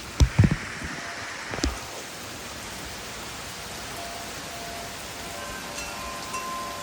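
Steady rain falling, with a few loud knocks in the first two seconds. Wind chimes ring faintly with a few clear tones from about four seconds in.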